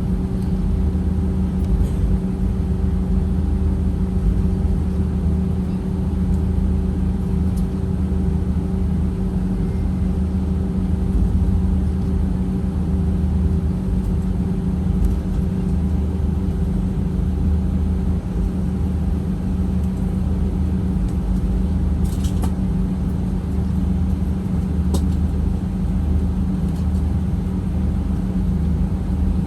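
Steady drone of a jet airliner's engines and rushing air, heard inside the passenger cabin, with a constant low hum and no change in pitch.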